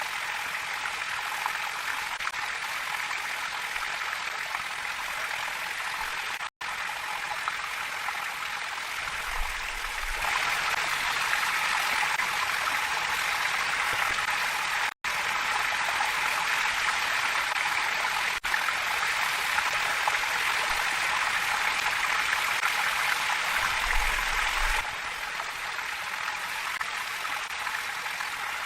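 Steady rush of running water, with no voices. It cuts out for an instant twice, gets louder about ten seconds in, and drops back near the end.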